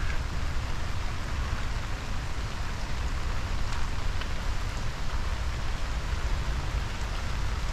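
Steady hiss of heavy rain, with scattered sharper ticks of individual drops and a low rumble underneath.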